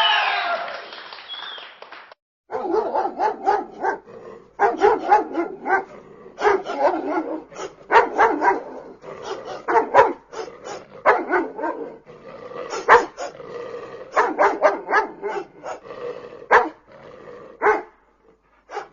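Dog barking over and over in quick, irregular runs of short barks. This follows the fading tail of a different effect at the start.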